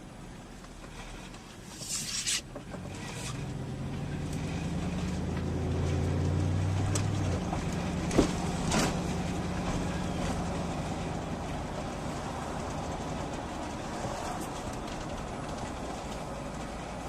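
Motor vehicle engine running with a low rumble, its hum growing louder over several seconds and then easing off slowly. A few sharp clicks are heard near the start and twice around the middle.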